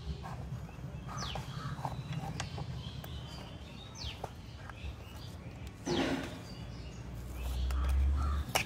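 A bird giving a short high call that falls in pitch, three times, with a few faint knife clicks and scrapes on a cardboard box. A low background rumble swells near the end and is the loudest part.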